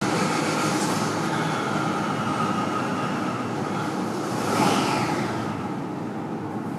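598 cubic-inch big-block Chevrolet V8 running loud on an engine dyno, climbing in revs to a peak about four and a half seconds in, then dropping back.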